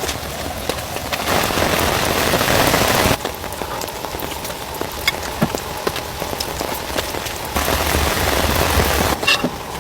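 Heavy rain falling, a steady hiss with scattered sharp drop impacts; it swells louder about a second in and again near the end.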